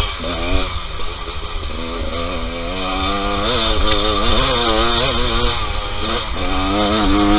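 Dirt bike engine running under throttle, its pitch repeatedly rising and falling as the throttle is rolled on and off, heard from the rider's onboard camera. It gets somewhat louder about three seconds in.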